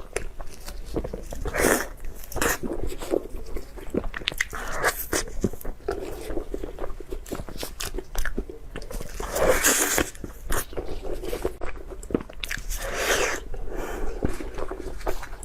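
A person biting and chewing food close to the microphone, with crunchy bites and many small mouth clicks. Louder bites come about two seconds in, around ten seconds and around thirteen seconds.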